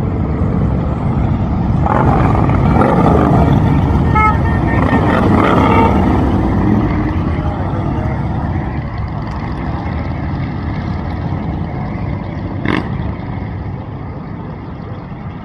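Motorcycle engines running together in a group ride, swelling louder for a few seconds from about two seconds in, with a single sharp knock near the end.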